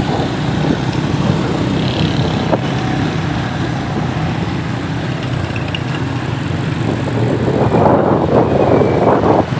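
Motorcycle engine running at road speed, with wind noise on the microphone that grows stronger in the last couple of seconds.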